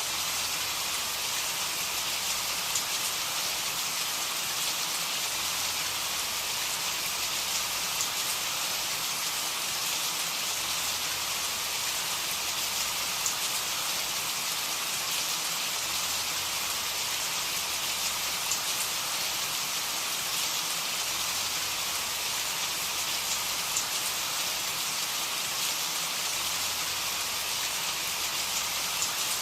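Steady rain falling: an even hiss of rain with scattered faint drop ticks.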